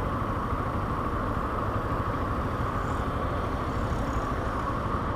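Steady vehicle noise: an even rumble and hiss that holds without change.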